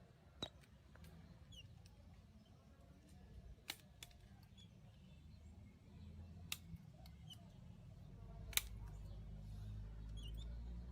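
A few faint sharp clicks or taps, about four, spread over the seconds, over a low hum that grows louder toward the end.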